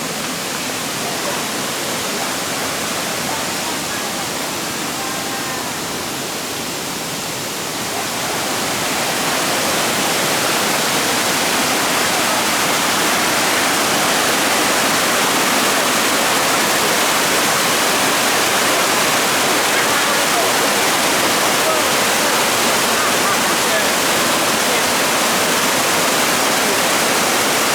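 Shallow water rushing and cascading over rocks in a steady, dense wash that grows louder about eight seconds in.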